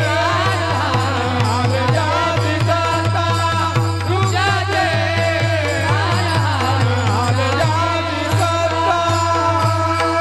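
Devotional kirtan music: a voice singing an abhang over steady held harmonium-like tones, with a drum striking a steady beat of about three strokes a second. The music cuts off suddenly near the end.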